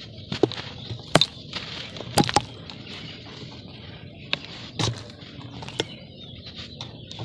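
Lumps of dry red dirt being crushed and crumbled by hand: a string of sharp cracks and crunches, about seven in all, over a light gritty rustle of crumbling soil.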